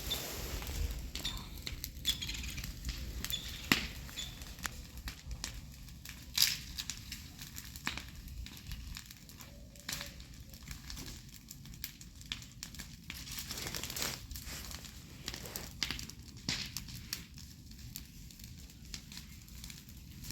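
Dry fallen leaves crunching and rustling as something moves through them, with irregular sharp cracks scattered throughout.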